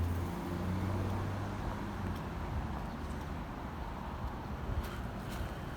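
A car engine's steady low hum that fades away about two seconds in, leaving a background of traffic noise. A few footstep-like clicks come near the end.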